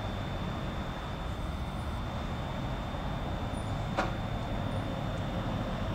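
Steady rumble of a distant electric train approaching on the tracks, with a faint steady high whine throughout and one sharp click about four seconds in.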